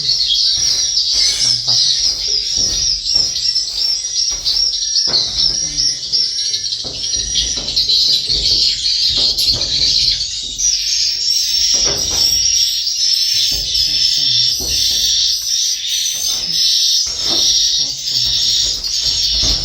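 Dense, continuous twittering of many edible-nest swiftlets in a swiftlet house, high-pitched and unbroken, with frequent sharp clicks mixed in.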